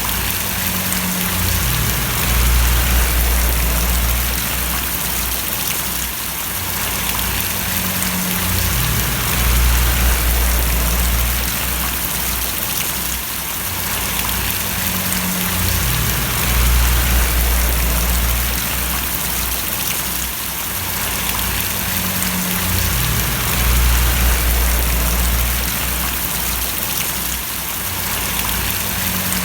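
Steady rain falling and splashing, an even hiss of drops, with a deep low rumble that swells and fades about every seven seconds.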